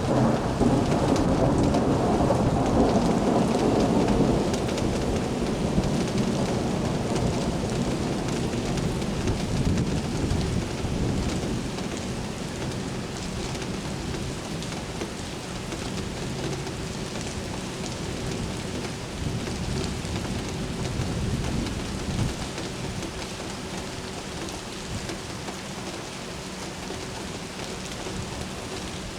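Thunder rumbling and fading away over the first dozen seconds, under steady rain. The rain then carries on alone.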